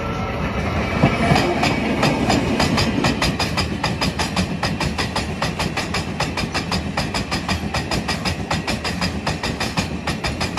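Chichibu Railway freight train passing close by. A Deki 500 electric locomotive goes past in the first two or three seconds, then loaded Woki 100 limestone hopper wagons roll by with a fast, steady clickety-clack of wheels over the rail joints.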